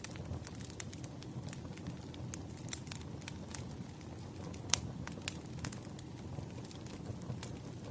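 Campfire crackling: a steady low rumble of burning with irregular sharp pops and snaps, one louder pop near the middle.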